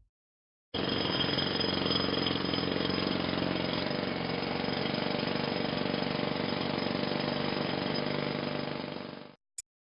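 An engine running steadily at idle, starting abruptly about a second in and fading out near the end, followed by a single short click.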